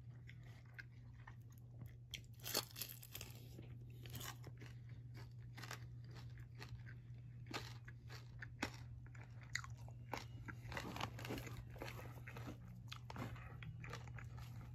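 Someone biting and chewing crispy fried chicken feet close to the microphone: faint, irregular crunches over a steady low hum.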